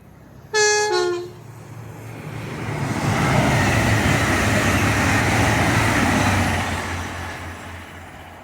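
A passing train gives a short two-note horn blast, high then low, then goes by at speed, its rushing noise swelling, holding for a few seconds and fading away.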